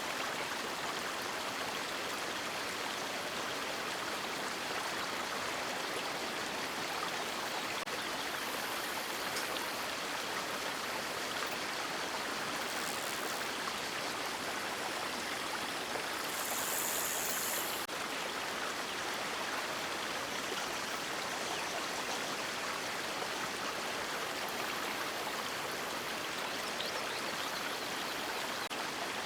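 River water rushing steadily, an even hiss of flowing water, with a short burst of brighter, higher hiss a little past halfway.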